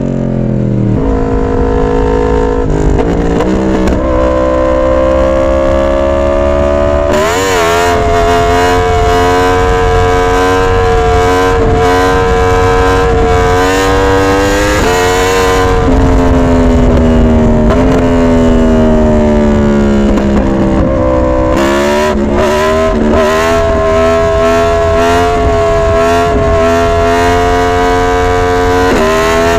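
2022 Yamaha R1's crossplane inline-four engine running hard, its pitch dropping at the start, climbing and holding at high revs for several seconds. It falls away for a few seconds past the middle, then climbs and holds high again.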